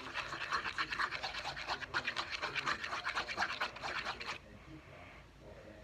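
Homemade slime being stirred fast in a container: rapid scraping strokes, about six a second, that stop about four and a half seconds in.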